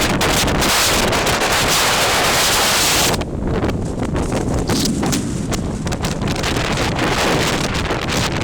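Strong wind buffeting the microphone, loudest for about the first three seconds, then rising and falling in gusts.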